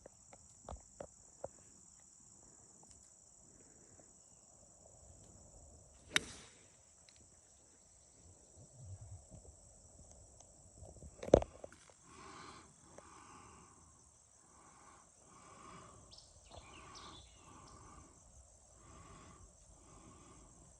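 Steady high-pitched chorus of insects such as crickets. A sharp knock comes about six seconds in and a louder crack about eleven seconds in. In the second half a run of soft, evenly spaced pulses repeats about once a second.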